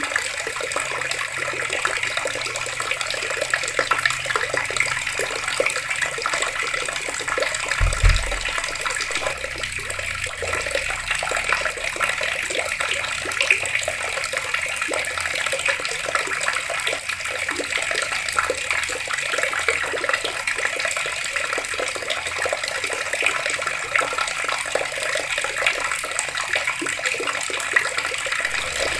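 Water running steadily from taps and splashing, with one short low thud about eight seconds in.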